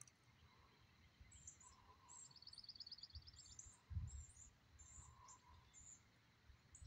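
Faint outdoor birdsong: short high chirps repeating throughout, with a rapid trill a little over two seconds in. A brief low rumble on the microphone comes about four seconds in.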